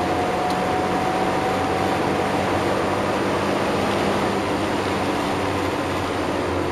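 Suzuki Cappuccino's turbocharged three-cylinder F6A engine running at speed on track, heard inside the cabin over a steady rush of road and wind noise. The low engine hum eases just after the start and comes back strongly near the end.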